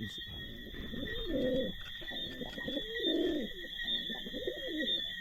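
Pigeons cooing, a series of low rising-and-falling coos, with a steady high-pitched whine underneath.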